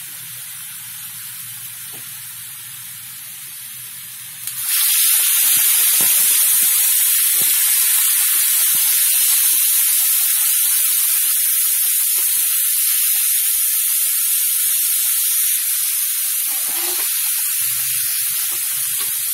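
Chopped shallots, garlic and red chilli sizzling softly in oil in a wok. About four and a half seconds in, a little water goes into the hot oil and the sound jumps to a loud, sharp hiss of spitting and steam, which keeps going and eases only slightly.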